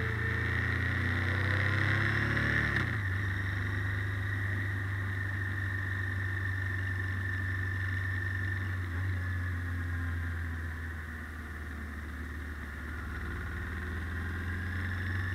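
Honda Deauville NT700V's V-twin engine running as the motorcycle rides through traffic, rising in pitch over the first few seconds as it accelerates, then dropping back and running steadily.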